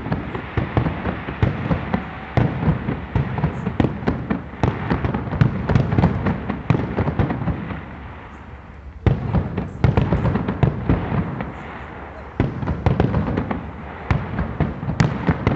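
Fireworks display: a dense barrage of rapid bangs and crackling bursts, easing off briefly about halfway through before resuming at full strength.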